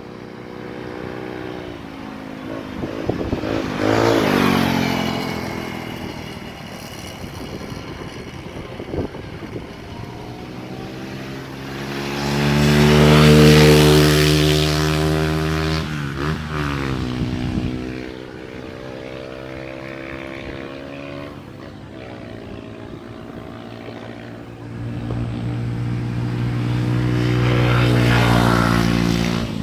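Motorcycle engine running, its pitch and loudness rising and falling several times. It is loudest about 13 seconds in and again near the end.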